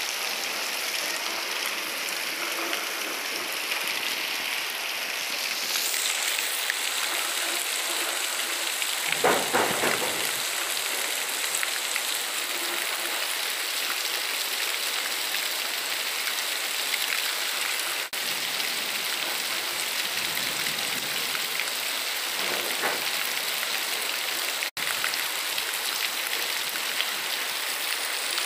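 Heavy rain falling steadily, an even hiss. A brief, louder and deeper swell comes about nine seconds in.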